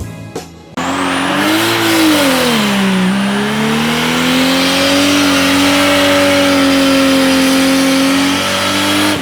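Drag car engine revved hard and held at high, nearly steady revs for several seconds, the pitch rising and dipping before settling, as in a burnout with some tire squeal, then dropping off near the end. Background music plays for the first second.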